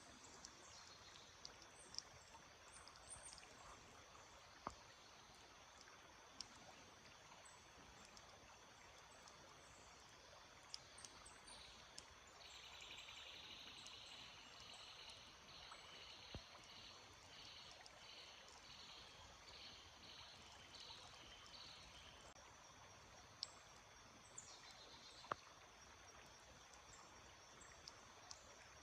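Faint, steady trickle of a small stream. From about halfway through, a bird gives a quick series of high notes for several seconds, and there are a couple of sharp ticks.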